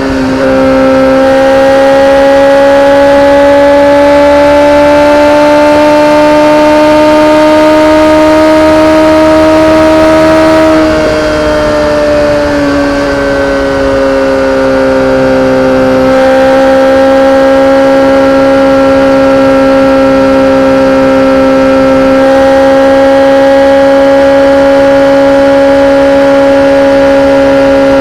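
BMW K1300R's inline-four engine through an Akrapovic exhaust, running with a sustained, high, steady note. The pitch climbs slowly for about ten seconds, drops over the next few seconds as the revs ease, then holds steady.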